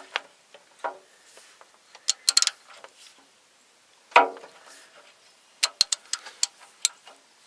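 Metal hand tools and engine parts clinking and clanking as they are handled, in a few clusters of sharp clicks with one short ringing hit about four seconds in.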